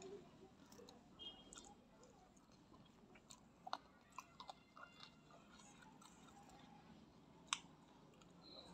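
Faint chewing of fried chicken, mouth mostly closed, with a few sharp wet mouth clicks between three and five seconds in and another near the end.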